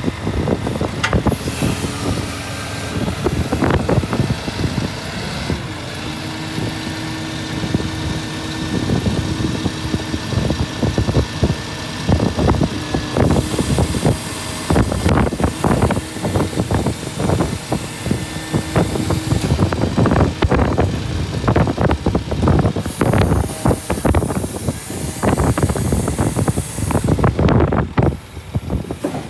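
Scania G490 truck's diesel engine running steadily, with frequent irregular knocks and clatter over it.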